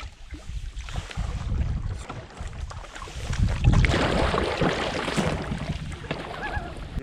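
Wind buffeting the microphone: an uneven low rumble that swells for a couple of seconds around the middle.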